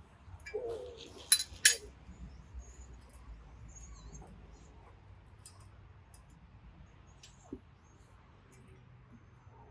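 Small steel bolts clinking as they are taken out of a log splitter's cover: two sharp metallic clinks close together about a second and a half in, then faint scattered ticks. A brief whine comes just before the clinks.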